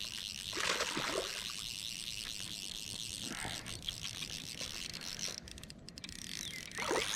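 Fly reel's click-and-pawl drag ratcheting rapidly as line is reeled in while a hooked bass is played, stopping about five and a half seconds in and starting again near the end. A brief louder noise comes about a second in.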